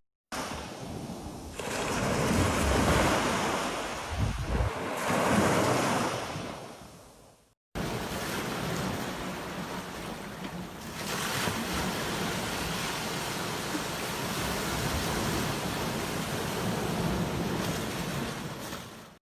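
Ocean surf washing onto a beach, swelling and fading as waves come in, with wind buffeting the microphone. The sound drops out briefly twice, at the very start and about eight seconds in, then runs on as a steadier rush of surf.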